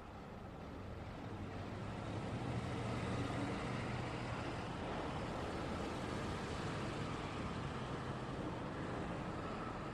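Road traffic passing: a steady wash of tyre and engine noise with a low engine hum, swelling over the first few seconds as a heavier vehicle draws near, then holding steady.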